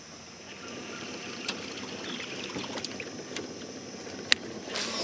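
Water and boat noise, a steady wash with scattered small clicks and one sharp click about four seconds in.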